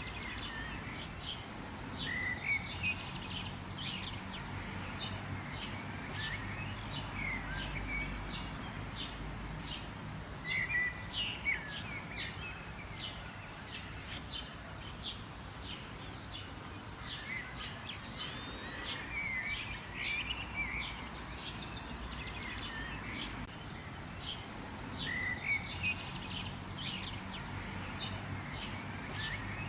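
Many birds chirping in a dense, continuous stream of short high calls, with a few louder warbled phrases every several seconds, over a faint low rumble.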